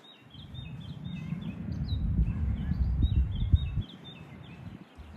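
Small birds chirping in quick runs of short notes, over a low rumble that cuts off suddenly about four seconds in.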